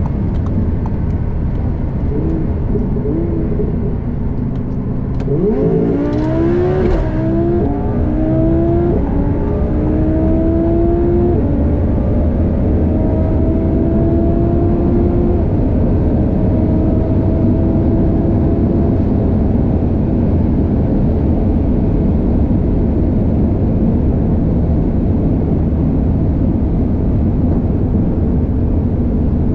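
Twin-turbo Audi R8 5.2-litre V10 pulling hard at full throttle through several upshifts, each gear rising in pitch and lasting longer than the last. It then holds a steady high speed under a dense rumble of engine, tyre and wind noise.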